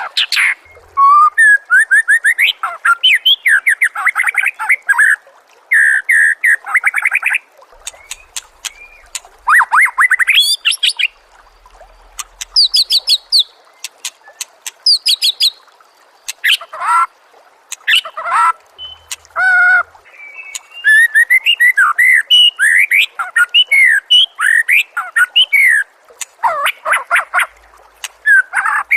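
Songbird singing a loud tutor song for training caged songbirds: short bursts of rapid, varied chirps, whistled sweeps and trills, separated by brief pauses.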